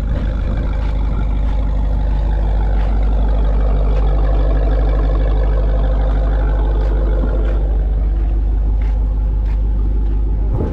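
Car engine running while driving, a steady low drone. Its pitch climbs a little a couple of seconds in and eases back off later.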